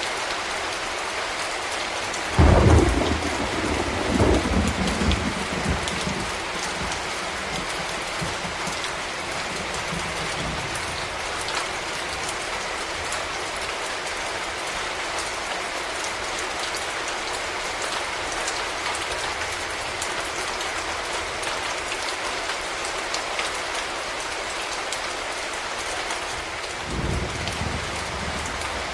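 Steady rain falling, with a sudden loud thunderclap about two and a half seconds in that rumbles away over the next few seconds. A fainter rumble of thunder comes near the end.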